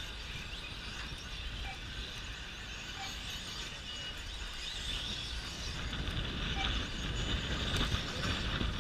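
Electric 1/10-scale short course RC trucks racing: a steady high whine of brushless motors and drivetrains that grows louder over the last few seconds, with wind rumbling on the microphone.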